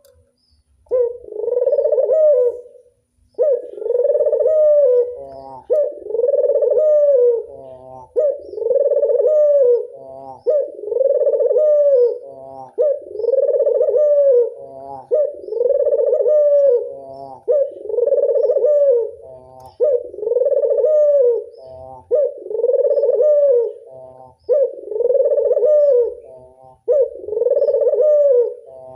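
A local puter dove (ringed turtle dove) cooing over and over in its classic song: a long rolling coo repeated about every two seconds, a dozen times in a row, with a quick stutter of short notes between phrases.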